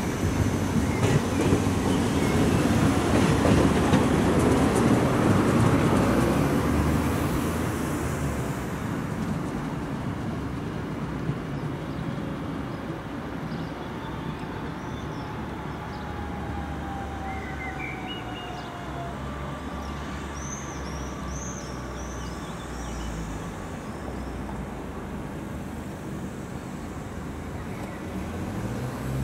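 DB class 425 electric multiple unit rolling past close by, its wheels rumbling on the track. The sound fades after about seven seconds as the train draws away, leaving a steady distant rumble with a faint falling whine and a few short high chirps.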